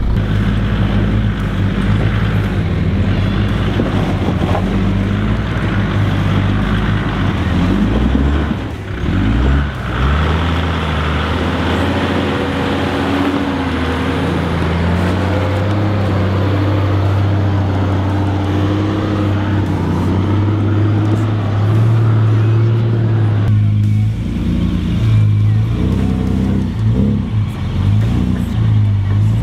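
Four-wheel-drive engines running at low speed as the vehicles crawl over a rocky track, with the revs rising and falling a few times.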